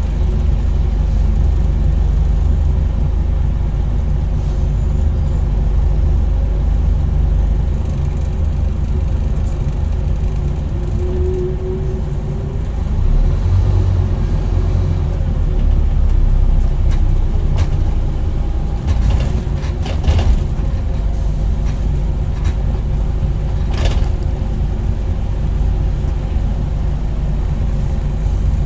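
Scania N230UD double-decker bus's five-cylinder diesel engine running with a steady low drone, with a few sharp clicks and rattles in the second half.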